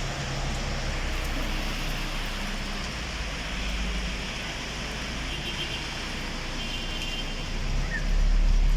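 Steady road noise of a moving vehicle: a low rumble under an even hiss, swelling louder near the end.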